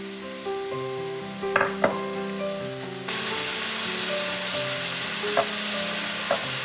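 Chopped vegetables frying in olive oil in a pan: a steady sizzle that jumps louder about three seconds in, with a few sharp knocks of a utensil stirring against the pan.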